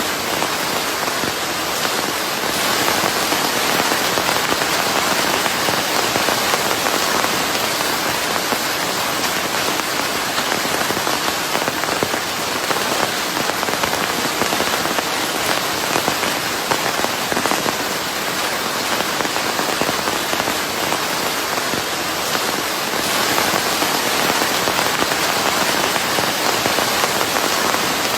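Steady heavy rain falling on a surface: a dense, even patter of many fine drops with no pauses, mixed into a constant hiss of white noise.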